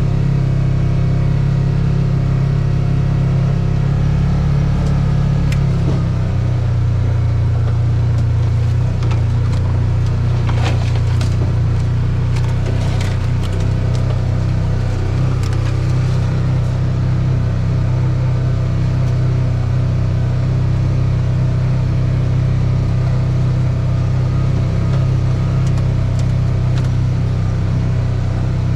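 A motor vehicle's engine running steadily, its note dropping slightly about six seconds in, with scattered clicks and knocks partway through.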